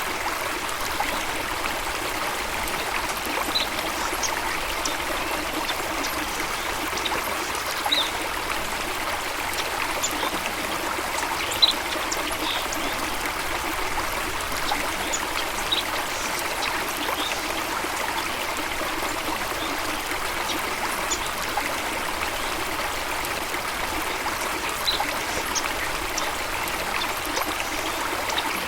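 Running water of a stream or small waterfall, a steady babbling rush, with a few brief high-pitched sounds scattered through it.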